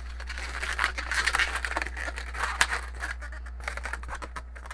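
Latex twisting balloons squeaking and rubbing under the hands as a pinch twist is made in the body of a balloon bird; the squeaking thins out near the end.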